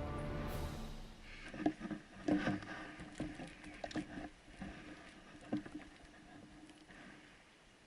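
Background music fading out in the first second, followed by a scatter of light clicks and crackles at irregular intervals that thin out toward the end.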